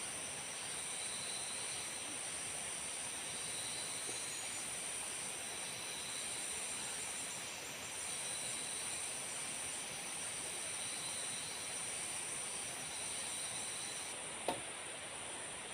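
Tropical forest insects, crickets or cicadas, droning in a steady high-pitched chorus, with a pulsing lower chirp, over an even hiss. A single sharp knock sounds near the end.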